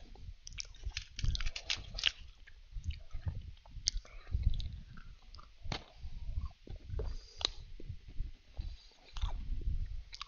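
Close-miked chewing and biting of Danish butter cookies: irregular crisp crunches and soft mouth sounds as a cookie is bitten and chewed.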